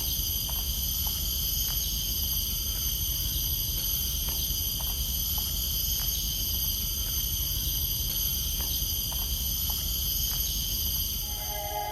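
Steady high-pitched chorus of forest insects, many layered ringing tones with no break, over a low rumble.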